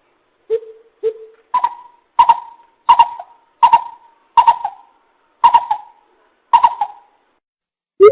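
Coucal hooting in a slow series of about nine deep hoots. The first two are lower and the rest a step higher and evenly spaced, each starting sharply. It is a recorded decoy call for luring wild coucals.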